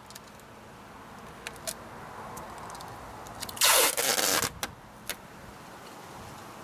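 Clear tape pulled off its roll in one long rip of just under a second, about halfway through, with a few small clicks and taps before and after.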